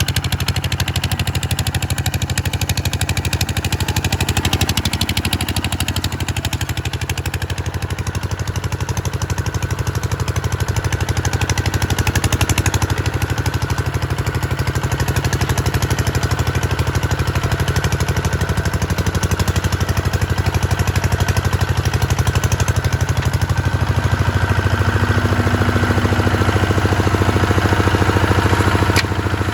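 Kubota RT140 single-cylinder diesel engine of a tractor running steadily with a rapid, even firing beat, its low tone growing heavier in the last few seconds.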